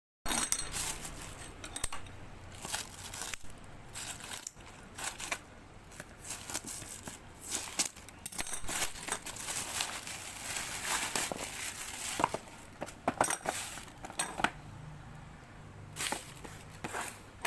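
Packaging being handled and torn open: irregular rustling and crinkling with sharper crackles, dense in the middle and fewer near the end.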